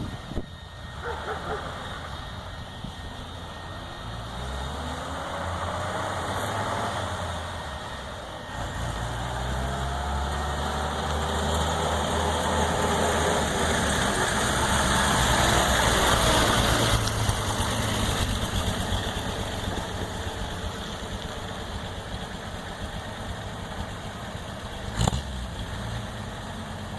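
A 1946 Chevrolet truck's original 216 straight-six pulls away, its revs climbing, then dropping at a gear change about eight seconds in. The revs climb again to the loudest point around sixteen seconds and then settle back as the truck eases off. A single sharp knock comes near the end.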